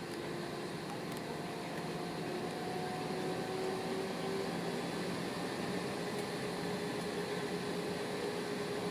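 Airbus A320-214 cabin noise: the CFM56 jet engines and air system humming steadily, with a few tones rising slowly in pitch and growing a little louder about three seconds in as engine power builds.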